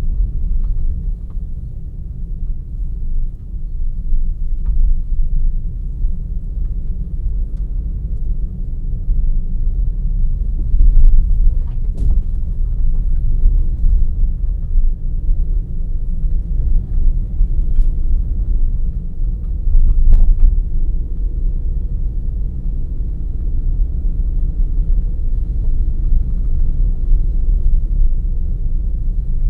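Steady low rumble of a car being driven, heard from inside the vehicle: engine and road noise. A few short sharp knocks, three in all, come in the middle.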